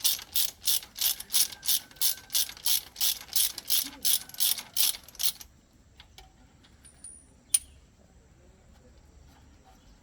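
Hand ratchet wrench being worked in quick, even strokes, about three clicks a second. It stops about halfway through, and a few faint clicks and one sharp tool click follow.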